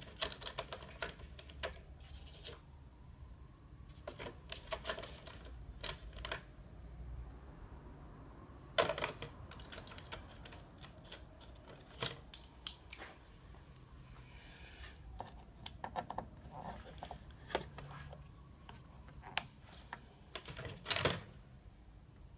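Irregular small clicks, taps and scrapes of hand work with tools and parts, louder knocks about nine, twelve and twenty-one seconds in, over a low steady hum.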